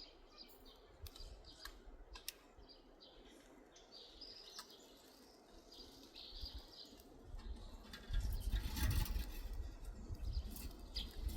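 Birds chirping, with a few scattered small clicks. About eight seconds in, a loud low rumble starts and continues to the end.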